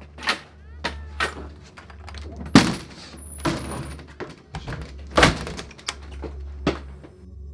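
A series of thuds and knocks, about one a second, the loudest about two and a half seconds in and another just after five seconds, over a steady low hum.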